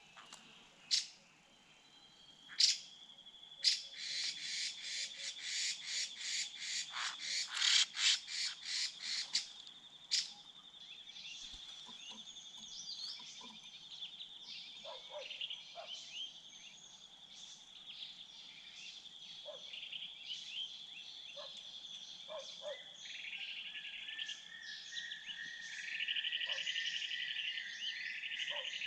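Wild animal calls: a rapid run of loud, sharp notes at about three a second for several seconds, over a steady high-pitched whine, with a buzzing trill coming in near the end.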